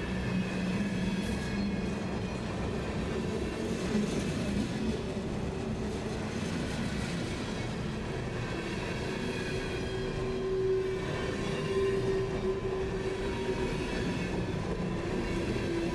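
Freight train rolling past on the rails in a steady rumble, with faint high wheel squeal drifting in and out.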